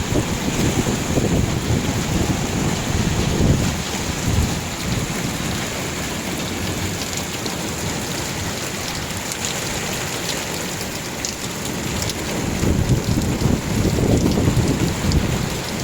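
Heavy downpour in a night thunderstorm, a steady hiss of rain, with low rolls of thunder swelling in the first few seconds and again near the end.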